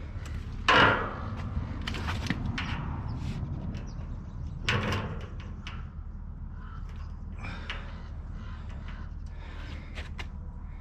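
Knocks and clanks of work on a steel-drum stove: two louder knocks with a short ring, about a second in and near the middle, and smaller clicks and scrapes between, over a steady low hum.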